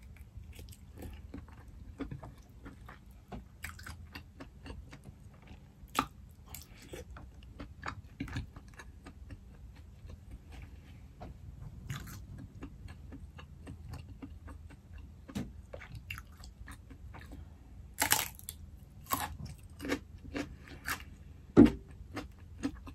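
A person chewing and biting boiled lobster meat close to the microphone: wet mouth clicks and smacks throughout, with a few louder clicks late on and a single low thump shortly before the end.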